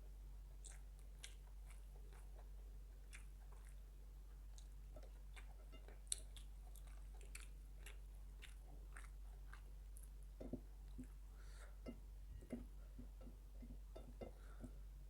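A person chewing and eating close to the microphone: quiet, scattered wet mouth clicks and bites, busier in the last few seconds.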